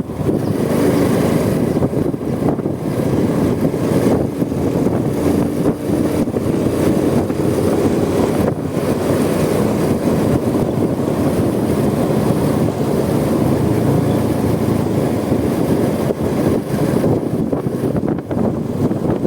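Honda Supra X 125 underbone motorcycle's single-cylinder 125 cc four-stroke engine running steadily at road speed, mixed with wind noise on the phone microphone.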